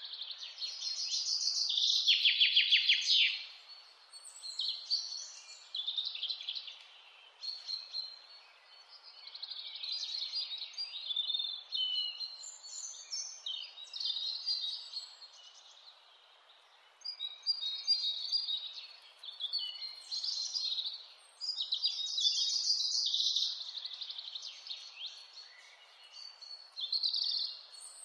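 Wild mountain songbirds singing and calling, several overlapping chirps and trills, with a loud rapid trill about two seconds in, over a faint steady hiss.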